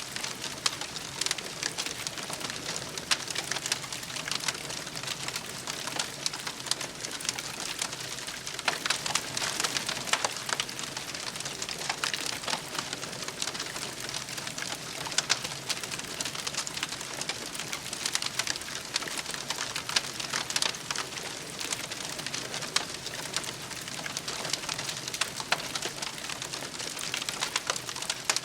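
Wood campfire crackling: a steady, dense patter of small snaps with louder pops scattered through.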